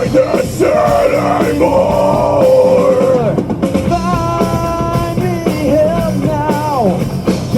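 A live metal band playing, with drums and guitars and a held melody line that bends up and down in pitch.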